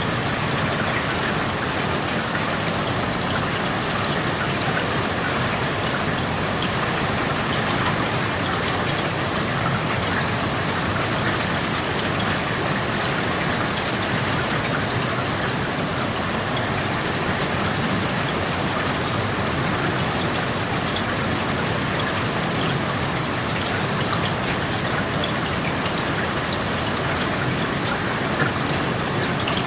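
Steady rain heard through an open window: an even hiss of rainfall with many small drop ticks scattered through it.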